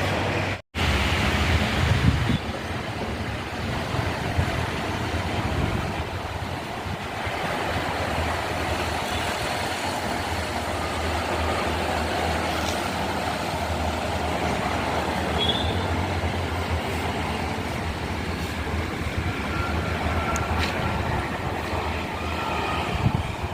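A heavy diesel engine running steadily, a continuous low rumble with a strong hum, broken by a brief cut to silence under a second in.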